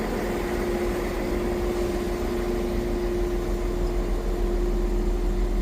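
A train standing and running steadily, with a deep rumble and a constant mid-pitched hum.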